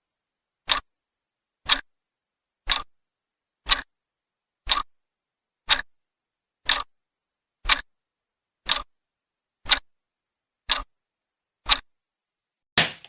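Clock ticking about once a second, each tick a sharp click with dead silence between; the last tick, near the end, is louder.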